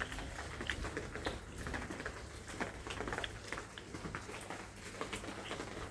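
Rain falling, with individual drops pattering irregularly, several a second.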